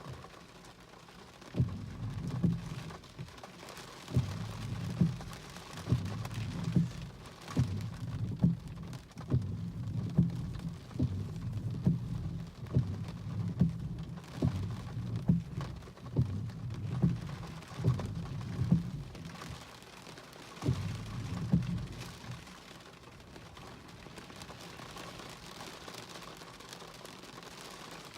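Strong gusty wind of a cold front buffeting the microphone in repeated, irregular low rumbles over a steady hiss. The gusts ease off in the last several seconds.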